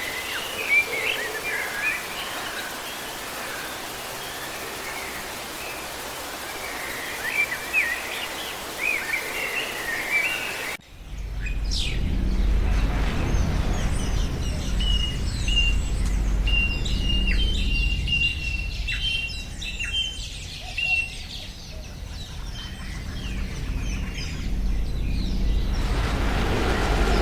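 Songbirds chirping and singing over a steady, noisy outdoor background. About eleven seconds in the sound cuts abruptly to another recording with a heavy low rumble under higher-pitched bird calls.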